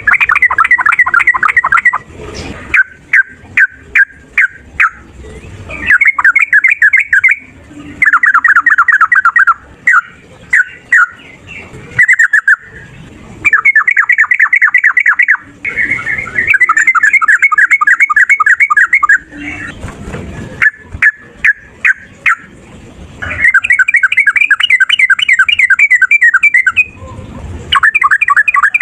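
Yellow-vented bulbul singing loudly in a rapid rolling chatter. Bursts of fast repeated notes, each about one to three seconds long, alternate with single sharp notes and short pauses.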